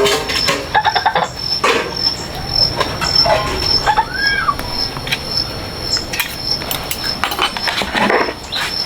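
Pigs squealing in short bursts, one rising-and-falling squeal about four seconds in, over a steady pulsing insect trill.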